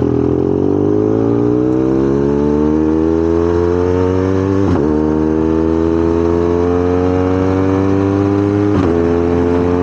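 BMW GS motorcycle's boxer-twin engine under acceleration on the road, its pitch climbing slowly and steadily, with two brief breaks, about five and nine seconds in, that sound like gear changes.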